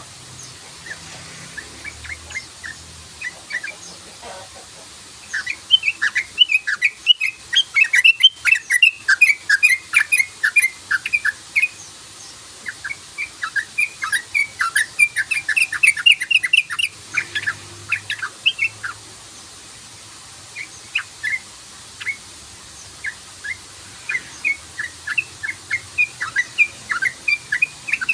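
Yellow-vented bulbul (trucukan) singing its rapid, bubbling "cruk-cruk" song in three long runs of quick short notes, the first starting about five seconds in.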